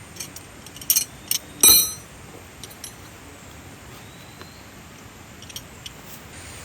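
A few sharp clinks and knocks from objects being handled. The loudest, about a second and a half in, rings briefly with a bright metallic tone. Under them runs a steady even hiss.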